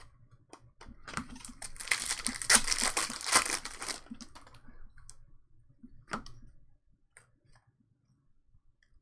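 Trading-card pack wrapper being torn open and crinkled for about three seconds, followed by a few light taps as the cards are handled.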